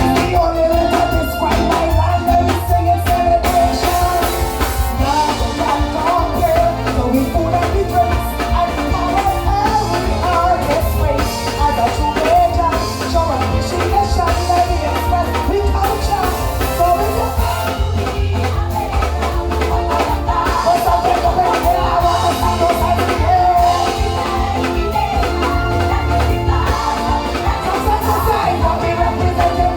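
Live soca music played loud through a stage sound system: a heavy, steady bass beat under a melody line.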